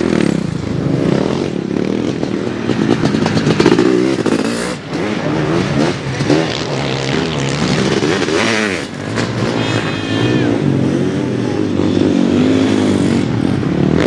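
Sidecar motocross motorcycle engines racing, their pitch rising and falling over and over as the riders work the throttle.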